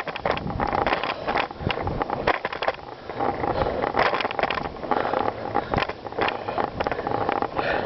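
Bicycle riding over a gravel trail: the tyres crunch steadily and the bike gives off frequent irregular knocks and rattles.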